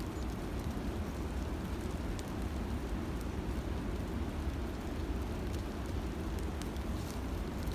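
Steady low rumbling noise with a faint hiss and a few faint clicks.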